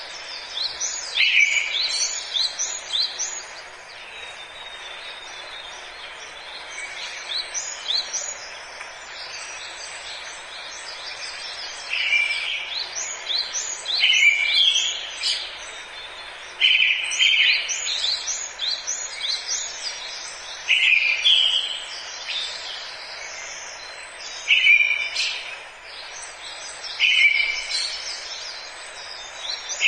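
Forest birdsong: a bird repeats a short phrase every few seconds, a low-pitched opening note followed by a quick run of higher notes, while other birds chirp faintly, over a steady background hiss.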